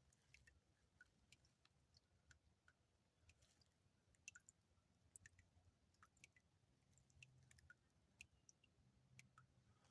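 Near silence, with faint, scattered short clicks.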